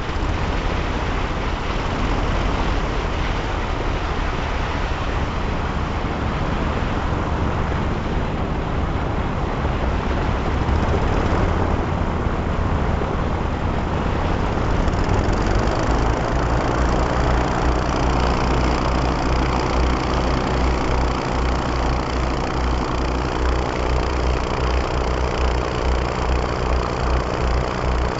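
Twin-engine airboat's engines and propellers running. About halfway through, the sound settles into an even engine drone with a clear, steady pitch.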